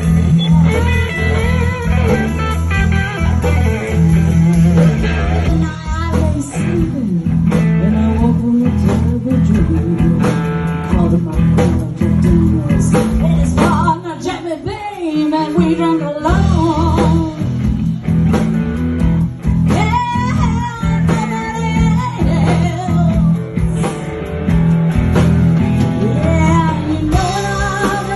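Live blues-rock band playing, with electric guitar over bass and drums; the low end drops out briefly about halfway through.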